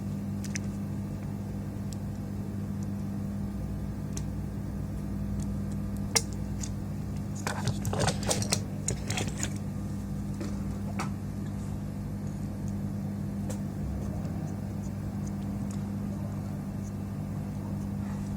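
Steady low machine hum with several pitches, with scattered clicks and taps of small parts or tools being handled, a short cluster of them about halfway through.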